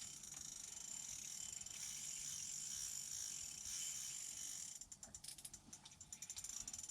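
Spinning reel's drag clicking fast and evenly as a hooked whitefish pulls line off at the ice hole, the drag just loosened; near the end it breaks into a few scattered clicks.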